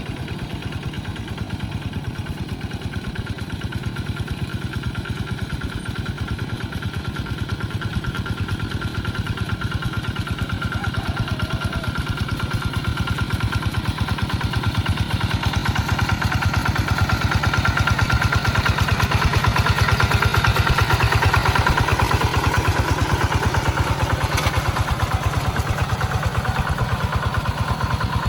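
Tractor engine running with a steady, rapid firing beat, growing louder until about two-thirds of the way through, then easing off slightly.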